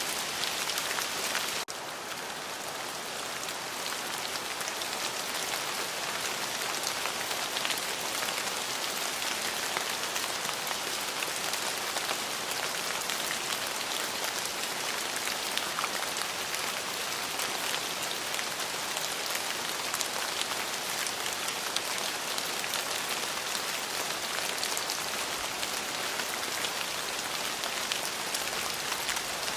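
Steady rain falling, an even hiss of dense drops pattering on surfaces, with no thunder. The sound drops slightly in level for a moment under two seconds in, then holds steady.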